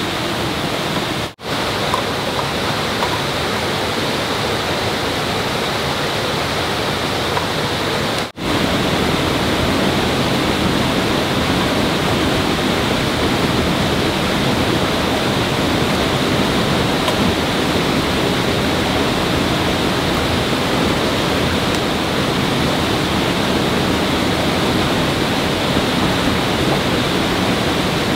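Steady rushing water, loud and unbroken, with two momentary cut-outs in the first nine seconds.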